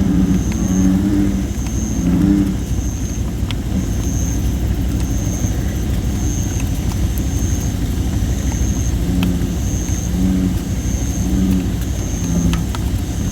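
Bullfrogs calling in deep, low, pulsed notes during the first couple of seconds and again from about nine seconds in, over a wood fire of thin red robin (Photinia) branches that gives a few sharp crackles. A high short chirp repeats about once a second.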